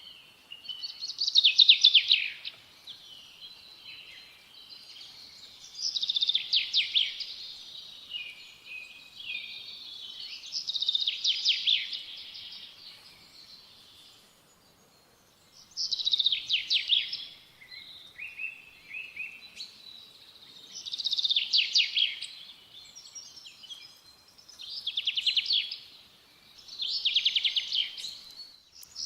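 A songbird singing, repeating a short, rapid trilled phrase about every four to five seconds.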